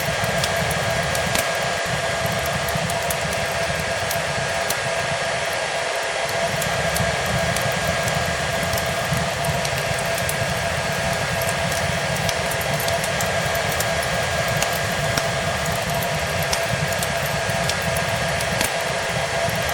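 A hair dryer blows steadily with a constant whine over its rushing air. Small fire crackles are scattered through it.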